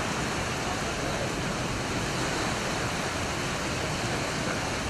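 Düden Waterfall pouring with a steady, even rush of water, its flow swollen and muddy after heavy rain.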